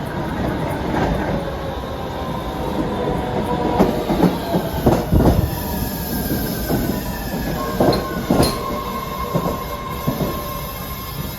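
Train moving through a station on steel rails: a steady rumble with a wheel squeal that slides in pitch, and a run of sharp knocks in the middle as the wheels pass over rail joints.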